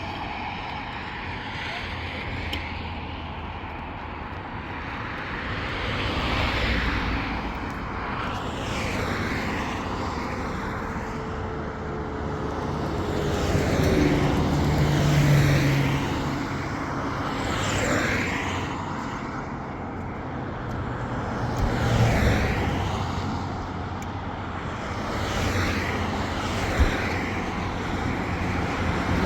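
Road traffic and engine noise: a steady low hum with vehicles swelling up and fading away every few seconds.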